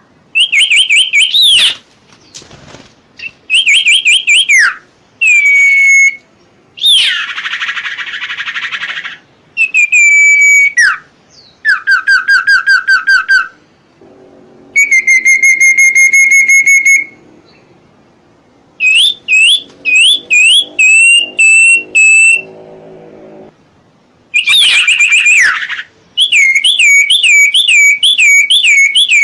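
A songbird singing a run of loud whistled phrases, each a second or two long with short pauses between: quick up-and-down notes, fast trills, one long steady whistle near the middle, and some harsher rattling notes mixed in.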